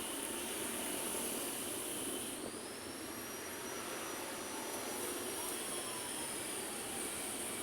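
Steady road traffic noise from passing vehicles, with a thin high-pitched whine that rises about two and a half seconds in and slowly fades.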